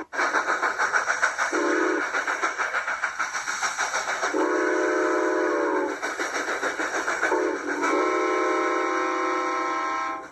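G-scale model steam locomotive's sound system chuffing in a fast steady rhythm while it sounds its whistle four times: short, long, short, then a long final blast.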